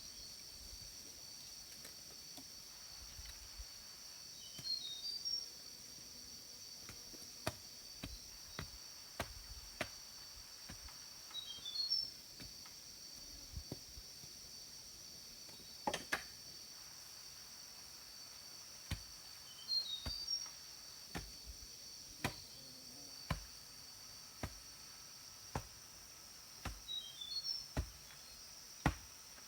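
Steady high-pitched drone of insects, with a bird's short call of a few quick notes repeated four times, about every seven or eight seconds. Scattered sharp clicks and knocks come through irregularly and are the loudest sounds.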